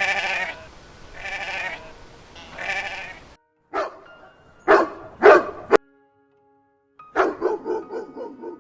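Three long, wavering bleats, then a dog barking three times. After a short silence comes a fast run of short pulsed calls, about eight a second.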